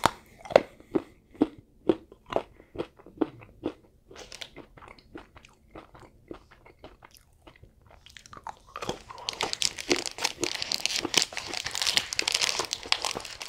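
A person chewing a Feastables Quinoa Crunch chocolate bar with crisped quinoa, with regular crunches about two a second that fade after a few seconds. Near the end a denser, continuous crackling takes over.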